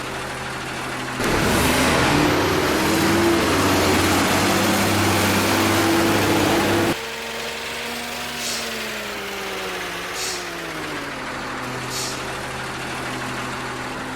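Truck engine idling, then revved hard for several seconds about a second in; the revs then fall away slowly and it settles back to a steady idle.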